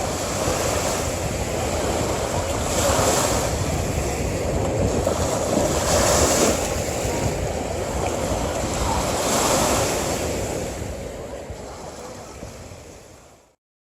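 Sea waves breaking on a beach, surging in swells about every three seconds. The sound fades out to silence just before the end.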